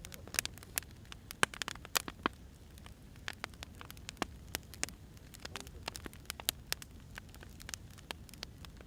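Burning firewood crackling: irregular sharp pops and snaps, a few louder than the rest, over a low steady rumble of flame.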